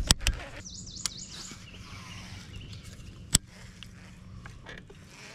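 A bird chirping briefly about a second in, among a few sharp clicks and knocks, the loudest one about three seconds in, over a low steady outdoor background.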